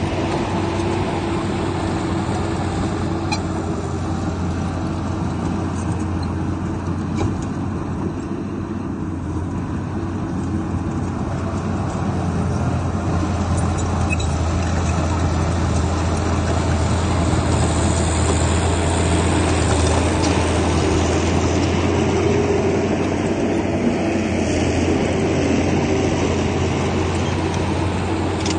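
Diesel engine of a Komatsu bulldozer running steadily under load, with a strong low hum that grows a little louder in the second half.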